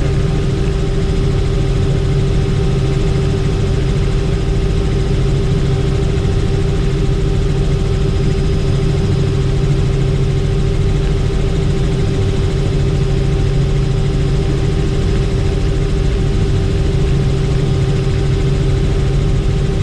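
Helicopter in flight: the steady drone of its turbine engine and rotors, with an even hum and a steady whine, unchanging throughout.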